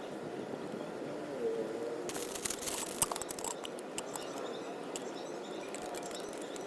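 A run of light clicks and rattles, like small hard objects being handled, loudest about three seconds in, over a steady low background.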